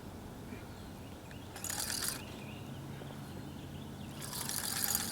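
Two short bursts of rattling, ratchet-like clicking, each about half a second long, the second a little louder.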